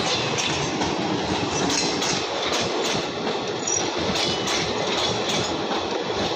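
Passenger coaches of the Howrah–Puducherry Express rolling past at close range, their wheels clacking over rail joints about twice a second over a steady rumble.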